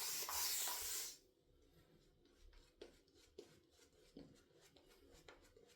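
Synthetic-fibre shaving brush working soap lather: a steady scratchy rubbing that stops abruptly about a second in. A few faint ticks and taps follow.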